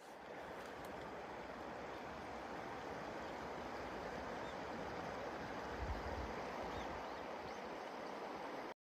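Wood pellets burning in a small camp stove: a faint, steady rushing noise that cuts off just before the end.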